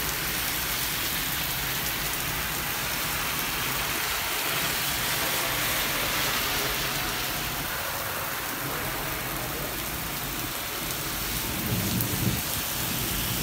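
Heavy rain pouring onto a street and pavement, a steady dense hiss. Near the end a brief low rumble with a thump rises over it.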